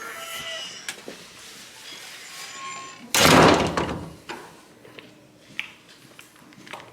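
Hotel room door shutting, one loud sudden thud about three seconds in that dies away over about a second, with a few faint knocks around it.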